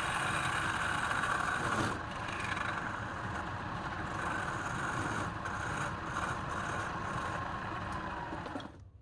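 Power tool motor running steadily under work, with a steady whine over a rough, noisy din; it cuts off abruptly near the end.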